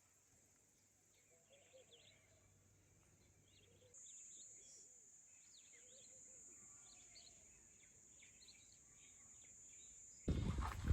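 Faint rural outdoor ambience: scattered small bird chirps over a steady high hiss, which grows a little louder about four seconds in. A much louder noise cuts in suddenly just before the end.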